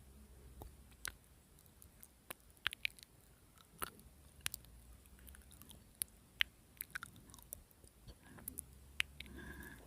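Close-up crackling and crunching from a mouth while chewing: sharp, irregular clicks like firewood crackling in a fire. A short pitched sound comes near the end.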